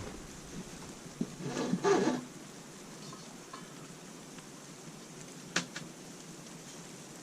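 Workshop handling noise of steel parts being fitted: a light knock, a short rattle and scrape of parts being moved, then a single sharp clank later on.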